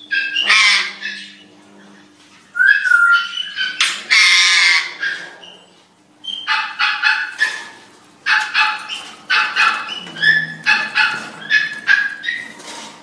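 Several cage birds calling loudly: harsh squawks and screeches in roughly the first five seconds, then a long run of quick, repeated chirps and short whistled notes.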